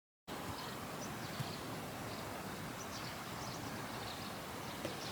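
Outdoor ambience: a steady hiss of background noise that cuts in abruptly just after the start, with faint high chirps every second or so.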